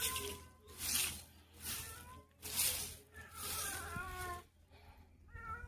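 A coconut-frond broom sweeping the ground in repeated swishing strokes, about one a second, with one longer stroke in the middle.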